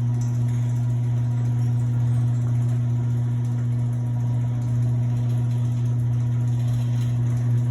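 Electric garage door opener running as the door travels, a steady low hum without squeaks or clunks from the door; the door's hinges are freshly lubricated, the spring not yet.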